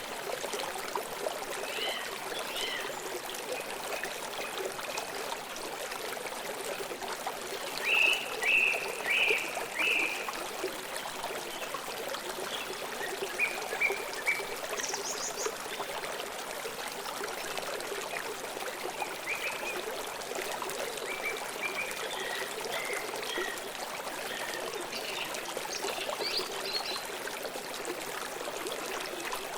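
River water flowing and splashing steadily, with birds chirping over it in short bursts of calls, a loud cluster about eight to ten seconds in and scattered calls later.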